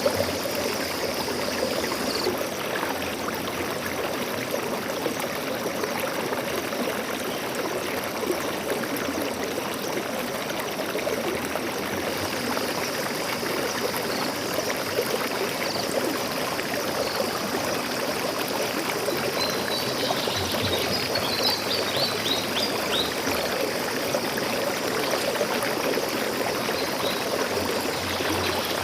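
Stream water flowing and trickling steadily, with a few short bird chirps about two-thirds of the way through and again near the end.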